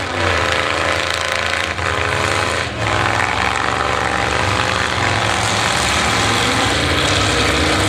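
Demolition derby car engines running and revving, several at once, their pitch rising and falling over a dense mechanical din.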